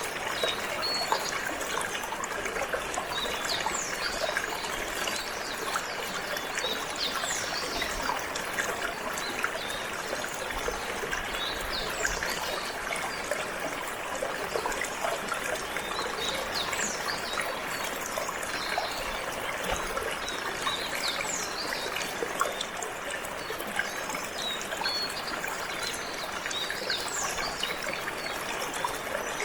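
Flowing water trickling and babbling steadily, with short, high canary chirps scattered throughout.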